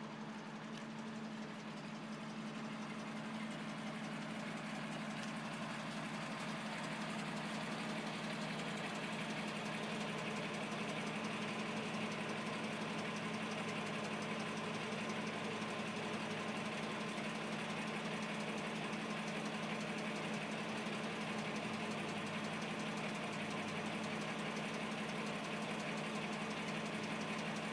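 Toyota Land Cruiser FJ40's F-series straight-six engine running steadily, growing a little louder over the first several seconds and then holding even.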